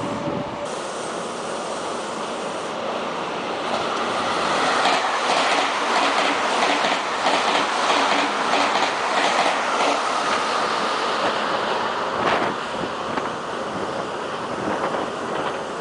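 Meitetsu electric train running through the station without stopping, its wheels clattering in a steady rhythm over the rail joints. It is loudest in the middle as the cars go by, then fades.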